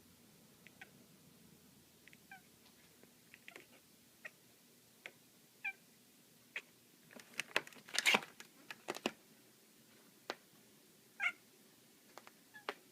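Domestic cat making short, scattered little calls while playing with a laser dot, with a bunch of sharp clicks about seven to nine seconds in.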